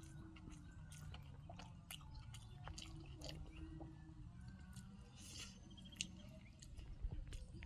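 A person chewing food, with small wet mouth clicks and smacks scattered irregularly through it.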